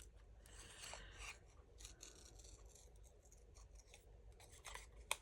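Scissors cutting paper: a run of faint, soft snipping strokes, with one sharp click near the end.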